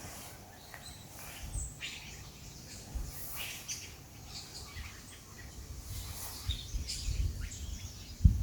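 Wild birds calling and chirping in short, scattered notes, several at a time, over a faint outdoor hiss. Low rumbling thumps come in over the last couple of seconds.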